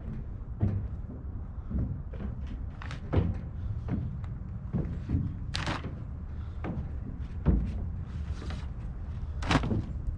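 Scattered knocks and thumps, a dozen or so spread irregularly, over a steady low rumble, as a heavy truck tarp is fetched and handled about a flatbed truck.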